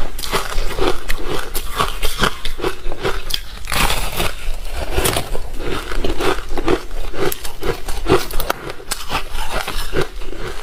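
Close-up chewing of ice dusted with matcha powder: rapid, repeated crunching and crackling bites with no pause.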